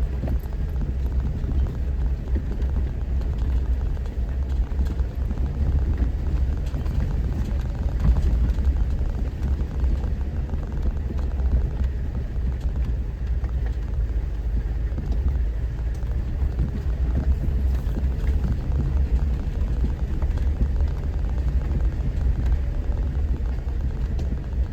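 Off-road 4x4 vehicle driving slowly over a rough trail, heard from inside the cab: a steady low engine and road rumble with scattered small knocks and rattles.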